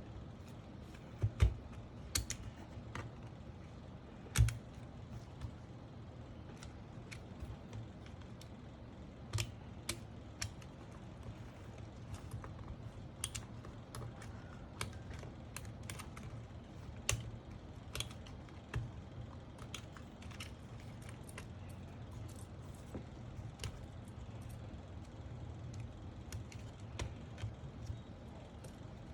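Scattered small plastic clicks and taps of mechanical keyboard parts being handled and fitted, such as stabilizer housings, with two louder knocks in the first few seconds.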